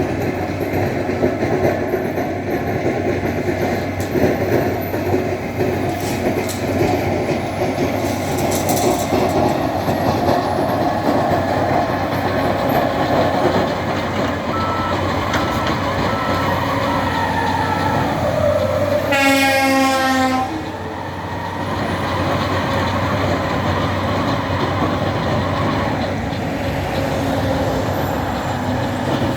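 Heavy diesel loader (tractor shovel) running steadily at work, a dense mechanical rumble and clatter. A short, high tone with many overtones sounds about two-thirds through.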